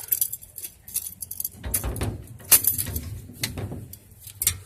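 Irregular light clicks and jingling metal rattles, with a dull low bump about two seconds in.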